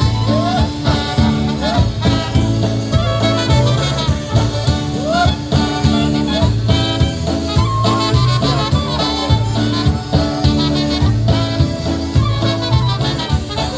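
Live polka band playing an instrumental stretch of a Polish-style polka, with a steady repeating bass beat under the lead melody.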